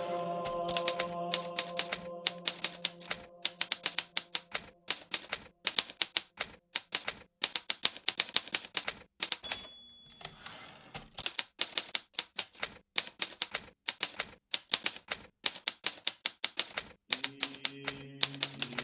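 Hermes Baby portable typewriter being typed on in quick runs of keystrokes. About nine and a half seconds in a short high ring sounds, the margin bell at the end of a line, followed by a brief pause in the typing. Soft held music notes lie under the typing at the start and come back near the end.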